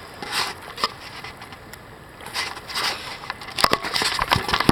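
Irregular scraping and splashing noises of a hooked lake trout being fought in on light spinning tackle, with a quick run of sharp clicks and scrapes near the end.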